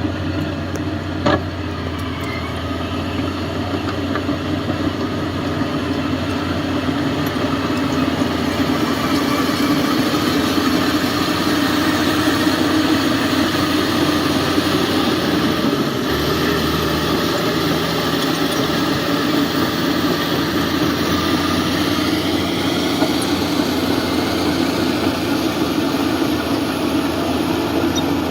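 Heavy construction machine's diesel engine running steadily, growing louder over the first several seconds, with a sharp click about a second in.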